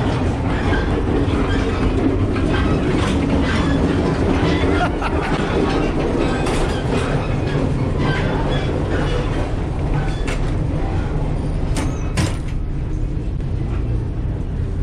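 Alaska Railroad passenger train running, heard on board: a loud, steady rumble of wheels on rail with scattered clicks and knocks, a few sharper knocks near the end.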